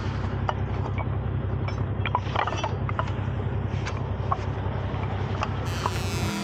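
Tow truck's engine running steadily, with scattered metallic clicks and clanks of recovery gear being handled over it.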